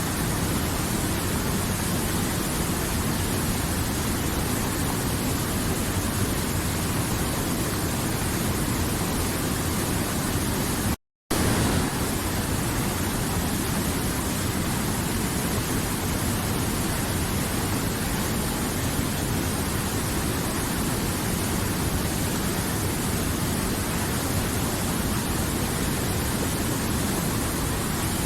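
River water flowing in a steady, even rush. It cuts out completely for a moment about eleven seconds in.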